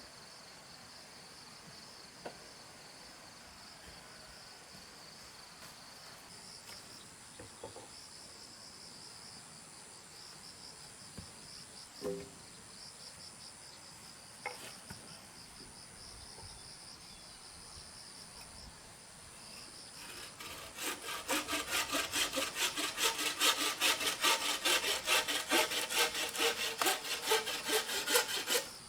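Hand saw cutting bamboo with quick, even back-and-forth strokes, about three a second, starting about two-thirds of the way in and stopping abruptly near the end. A steady high insect drone runs underneath, with a few light knocks earlier on.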